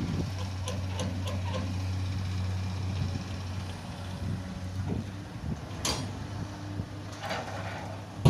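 A heavy diesel engine idling with a steady low hum that eases off after about four seconds. A few light clicks come about a second in, and a sharp click near six seconds.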